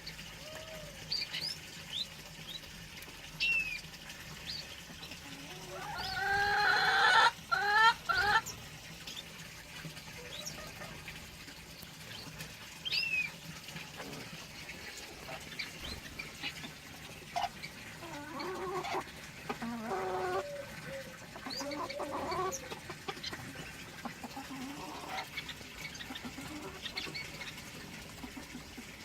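A mix of captive birds calling: short, thin chirps scattered throughout, one loud, drawn-out call about six seconds in that lasts a couple of seconds, and a run of lower calls later on.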